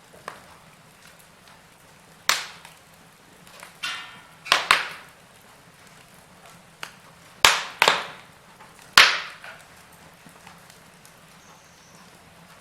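Wood fire burning: a low steady hiss broken by sharp, loud crackles and pops every second or two, some in quick pairs, the loudest about nine seconds in.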